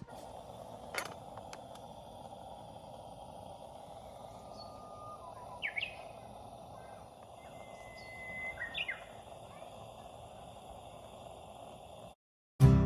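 A few bird calls, short sharp chirps and a brief level whistle, over a steady background hiss; the sound cuts off abruptly near the end.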